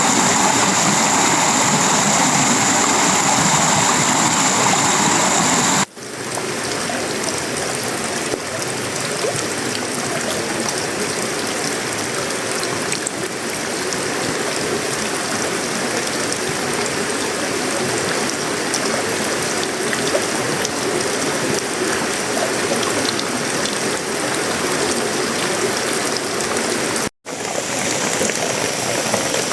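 Steady downpour of tropical rain drumming on a sheet-metal roof, wood and leaves, a continuous dense hiss. It cuts out for an instant about six seconds in and again near the end. Before the first cut, a high steady whine sits over the rain.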